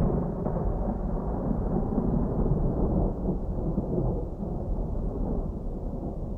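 Distant thunder rumbling continuously, deep and low, with no sharp cracks, slowly easing off over the few seconds.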